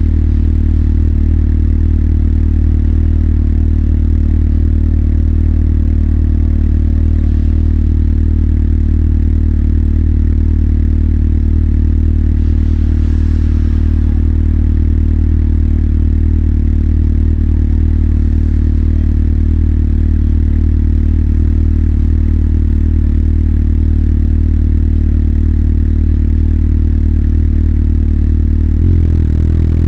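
Motorcycle engine running at one steady pitch, as at idle, then the revs climb sharply near the end.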